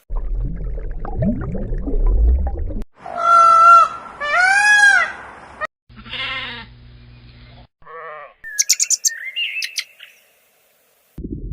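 A string of different animal calls cut together: two long pitched calls a few seconds in, the second rising and falling, then a shorter call, and rapid high chirps near the end.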